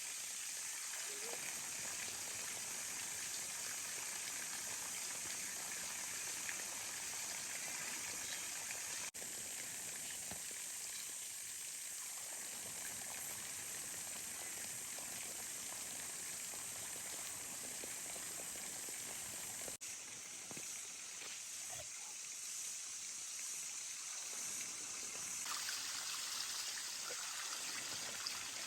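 Steady hiss of running water, like a stream or trickle, broken twice by abrupt cuts.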